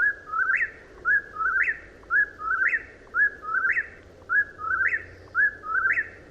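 Whip-poor-will calling its three-note "whip-poor-will" song over and over, about once a second, each phrase ending on a sharp rising note.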